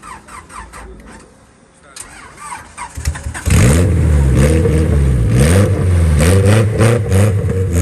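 Voices in the first few seconds; then about three and a half seconds in a drag car's engine comes in suddenly and loud, revving with its pitch rising and falling, and stays loud to the end.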